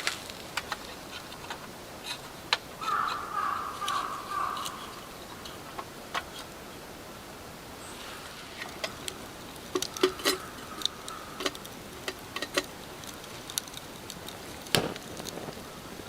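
Light rain falling steadily, with many scattered sharp taps of drops. A crow caws about three seconds in and again faintly around ten seconds.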